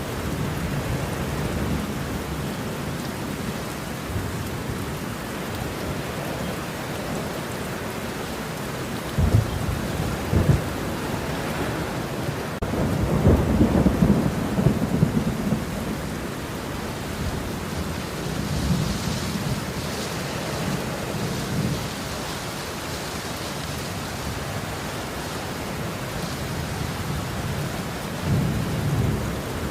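Steady heavy rain with rolling thunder: several low rumbles swell and fade over the hiss of the rain, the loudest about halfway through.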